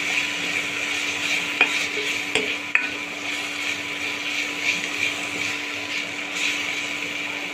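Mint masala of mint paste, green chillies and onions sizzling steadily as it fries in oil in a steel pan. A spatula clicks and scrapes against the pan a few times, over a faint steady low hum.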